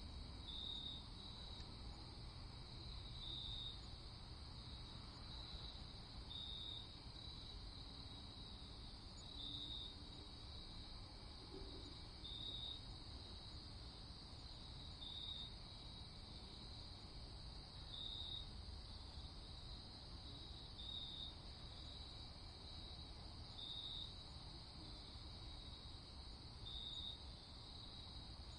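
Faint night-time crickets chirping steadily, a high continuous trill that swells to a louder pulse about every three seconds, over a faint low rumble.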